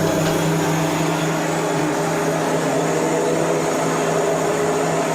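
An engine or machine running steadily with a constant hum.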